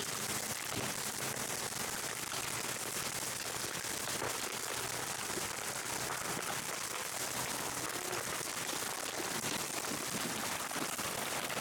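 A small engine running steadily with a fast, rattling beat.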